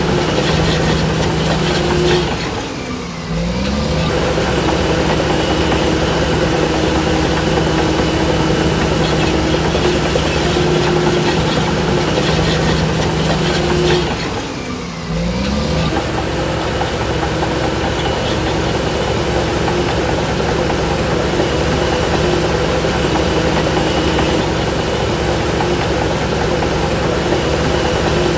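Shantui DH17C3 bulldozer's diesel engine running under load. It briefly drops in revs and climbs back up twice, about two seconds in and again some twelve seconds later.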